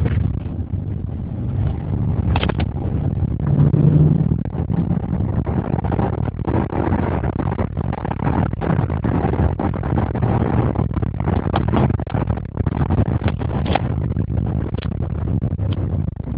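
Porsche Cayenne Turbo's 500 hp turbocharged V8 running continuously while driving, loudest about four seconds in. Short sharp knocks are scattered through it.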